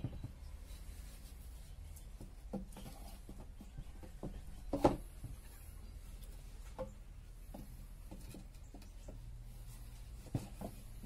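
Wooden hive box parts being handled: a few light knocks and scrapes of wood on wood, the loudest a single knock near the middle.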